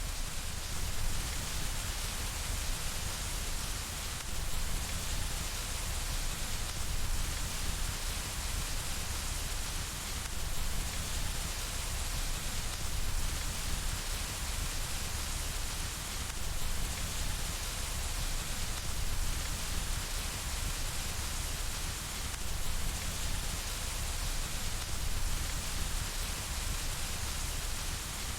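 Steady rain falling against a window: a continuous, even hiss with a low rumble beneath, swelling gently every few seconds.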